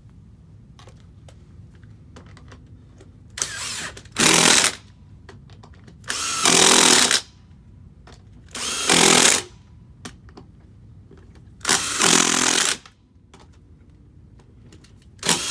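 Power tool, most likely an impact wrench running lug nuts onto a refitted wheel, in short bursts of about a second each, a couple of seconds apart. The first burst comes a few seconds in, and another starts right at the end.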